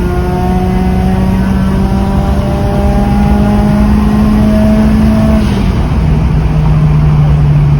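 Mitsubishi Lancer Evolution IV's turbocharged four-cylinder engine running under load, its pitch climbing slowly. About five and a half seconds in the revs drop and it settles at a lower, steady note.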